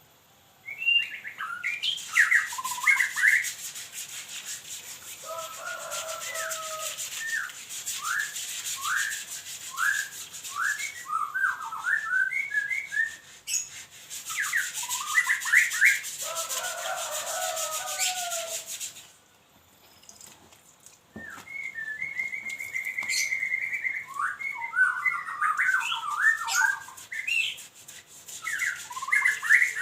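A songbird chirping and calling in quick runs of short notes, over a rasping scrub that comes in two long stretches, typical of brushing a bird cage clean. Both stop for a moment about two-thirds of the way in, then the chirping resumes.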